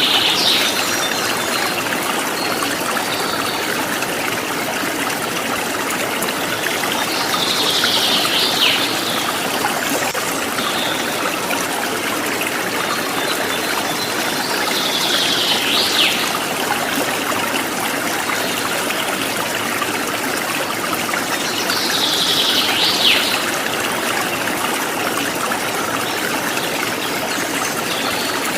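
Running water from a stream, a steady rushing trickle. A short, high bird call that sweeps down at its end repeats about every seven seconds, four times.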